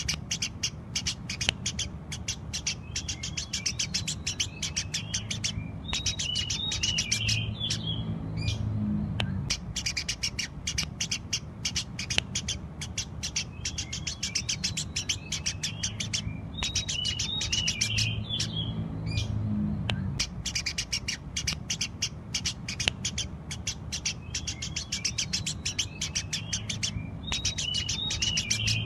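Eurasian tree sparrows chirping rapidly and incessantly in bouts of several seconds with brief pauses, some bouts ending in squeaky twitters.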